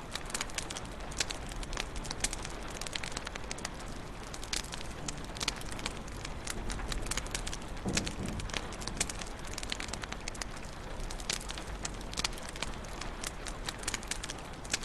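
Wood fire crackling in a fireplace: irregular snaps and pops over a steady soft hiss, with one louder, deeper pop about eight seconds in.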